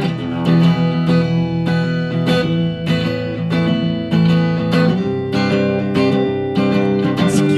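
Strummed guitar playing an instrumental break in a song, chords struck in a steady rhythm with no singing.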